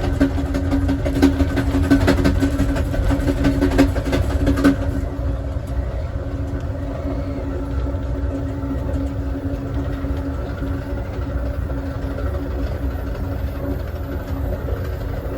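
Amtrak Southwest Chief passenger train rolling along the track, heard from the last car: a steady low rumble with a steady hum, and rapid clicking and rattling for about the first five seconds that then stops, leaving a smoother rumble.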